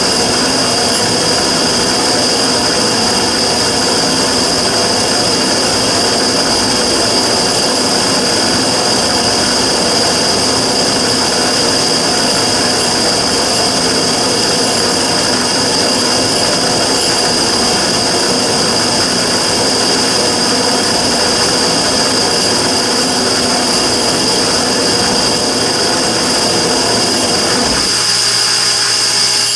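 Immersion tube burner running with a steady loud rush and a constant high-pitched whistle, the abnormal noise the uploader is recording. Near the end the lower rumble drops away abruptly while the whistle continues.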